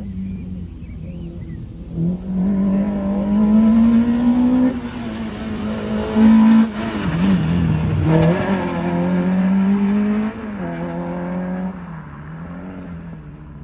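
Small race-prepared hatchback's engine revving hard on a cone slalom course. Its pitch climbs and drops several times as it accelerates and lifts off between the cones, then fades near the end.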